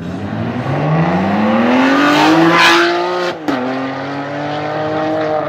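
Ferrari 599's V12 engine accelerating hard, its note rising steadily for about three seconds. It then drops abruptly with a sharp break at an upshift and pulls on at a lower pitch.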